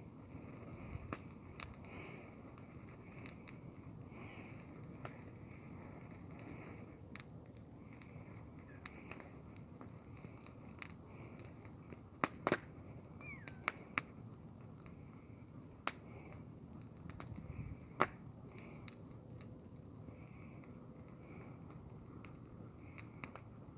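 Bonfire of pruned rose-bush cuttings burning, with scattered sharp pops and crackles over a low steady rumble.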